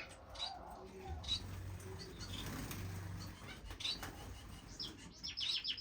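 Small finches in an aviary chirping, with short high calls scattered through and a quick run of chirps near the end, and wings fluttering as birds fly and cling to the wire mesh.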